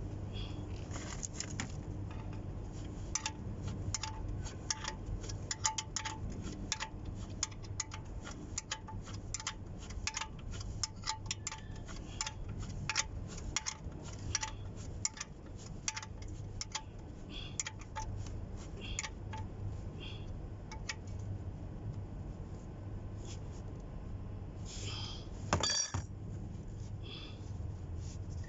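Light metallic clicks of hand tools on metal, each with a short ringing ping, coming irregularly about two a second for some twenty seconds, then stopping. A steady low hum runs underneath, and one louder knock comes near the end.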